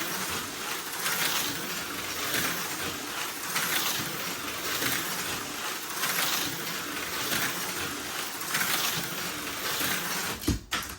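An HO scale slot car on a Viper V3 chassis lapping the track: a steady electric motor and pickup hiss that swells and fades about every second and a quarter as the car comes round. Near the end there are a few sharp clacks and the running cuts off suddenly. It is running smoothly, which the driver calls running great.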